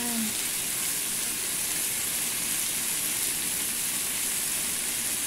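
Chicken breasts sizzling steadily in a hot frying pan.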